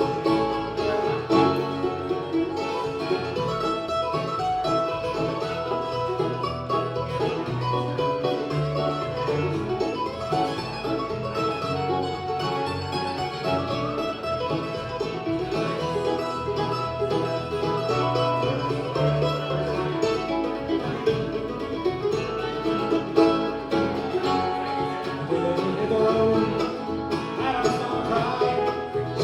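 Live bluegrass band playing an instrumental passage of a song, plucked and bowed strings going steadily with no singing.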